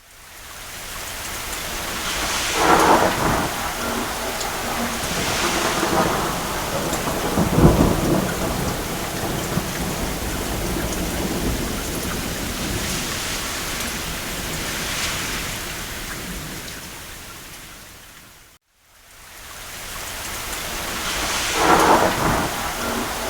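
Steady rain on a roof with rolls of distant thunder swelling up several times, the deepest rumble about a third of the way in. About four-fifths through, the sound fades out to a moment of silence and fades back in.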